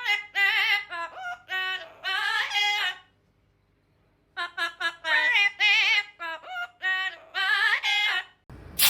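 A parrot singing in a warbling, wavering-pitch voice, two sung phrases with a pause of about a second and a half between them.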